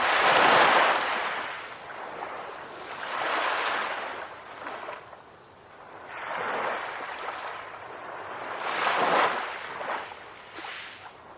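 Ocean surf breaking on a shore. The rush of water swells and fades four times, about three seconds apart, and the first wave is the loudest.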